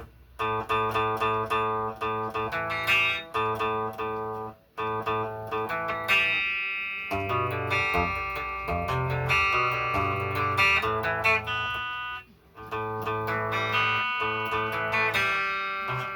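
A guitar playing a riff of picked notes and chords. The playing breaks off briefly about a third of the way in and again about three quarters of the way through.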